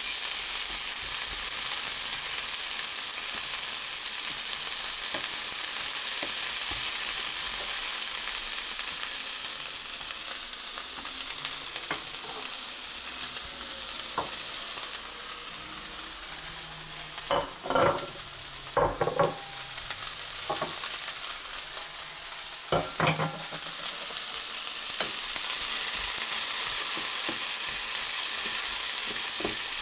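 Food sizzling as it fries in a hot pan and is stirred, with a steady hissing sizzle. A few loud knocks of a utensil against the pan come about two-thirds of the way through, and two more follow a few seconds later.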